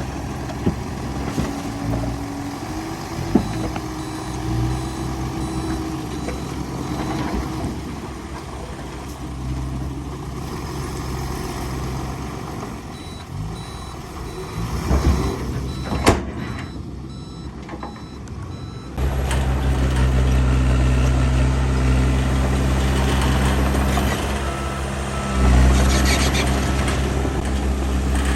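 Heavy diesel earthmoving machinery running, with a truck's reversing alarm beeping steadily and a few sharp knocks. About two-thirds of the way in, a heavy diesel engine comes in much louder and runs steadily.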